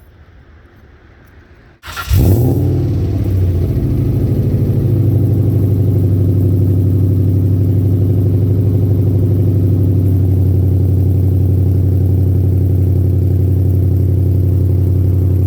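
A car engine comes in abruptly about two seconds in, with a short flare at the onset, then runs loud and steady at an unchanging speed.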